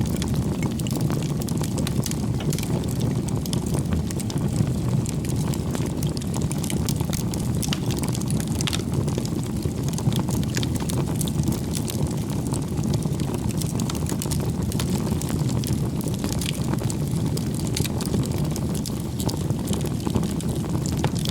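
Wood campfire burning: a steady low rush of flame with frequent small crackles and pops from the burning logs.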